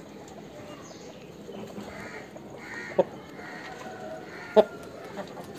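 Birds calling in short sharp notes, the two loudest about halfway through and a second and a half later, with fainter calls scattered around them.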